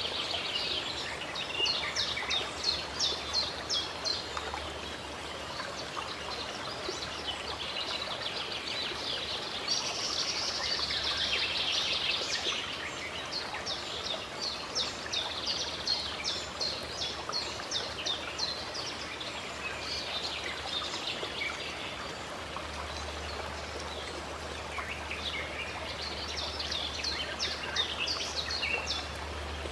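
Running water from a stream or spring makes a steady rush, with birds singing over it in bouts of quick, repeated high chirps, several notes a second: one bout just after the start, a longer one in the middle, another near the end.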